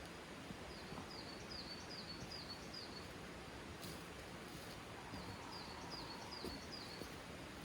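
A small bird calling in two runs of quick, repeated high chirps, about three a second, over a faint steady outdoor hiss.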